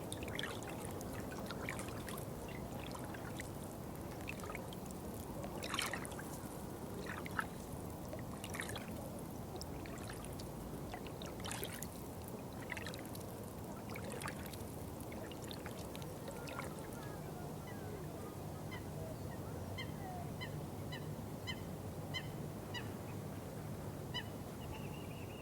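Water trickling and pouring steadily, with occasional sharper splashes in the first half. In the last several seconds a bird calls a quick, even run of short high notes, about two a second.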